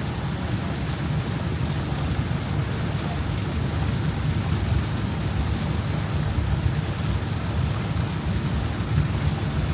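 Steady low rumble of wind buffeting the microphone aboard a moving boat, mixed with the boat's own running noise, with no distinct events.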